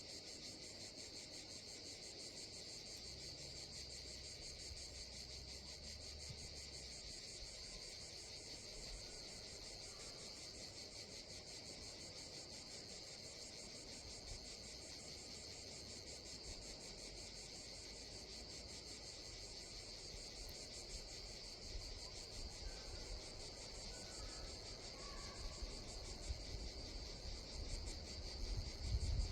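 A steady chorus of insects chirping in a summer forest, a fine, fast, high-pitched pulsing that never lets up. A low rumble builds near the end.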